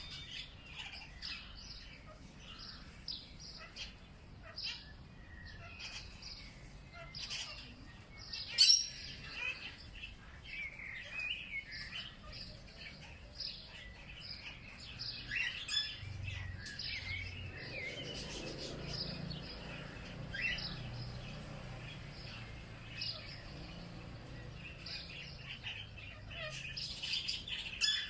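Several small birds chirping and twittering in quick, overlapping short calls. A single sharp click stands out about a third of the way in, and a faint low rumble sits underneath midway.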